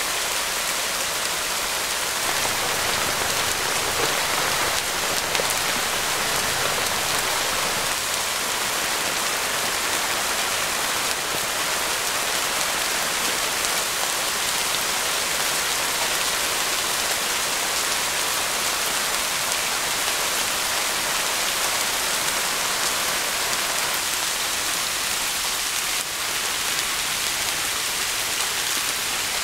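Steady rain falling on a tarp shelter, an even continuous rush of drops with no single strikes standing out.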